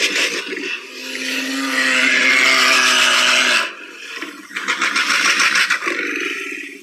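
Bear growling: a long growl of nearly three seconds, a brief drop, then a second growl that runs on to the end.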